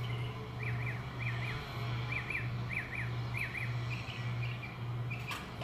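A bird calling in a run of quick paired high chirps, about five pairs in three seconds, then fainter calls, over a steady low hum. A sharp click near the end.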